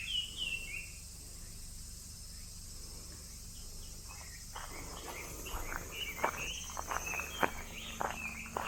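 A steady high-pitched drone of cicadas in summer, with a bird chirping repeatedly in short, quick calls from about halfway through.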